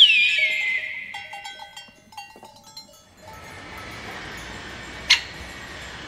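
A bird's shrill call that slides steeply down in pitch, followed by a few short chirping notes. After that comes a steady outdoor hiss with a single sharp tap about five seconds in.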